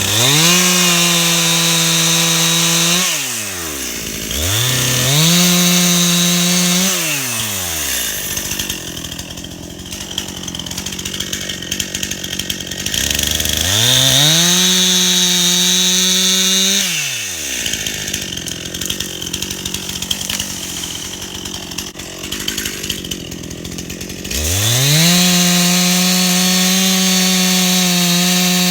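Stihl MS261 C two-stroke chainsaw revving up to full throttle four times, the last held to the end. Between the revs are lower, rougher stretches as the saw works in the cut, felling beech trees.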